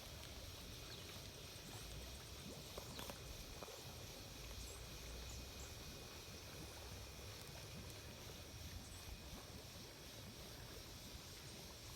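Faint, steady outdoor background noise with a low rumble and a few soft ticks about three seconds in.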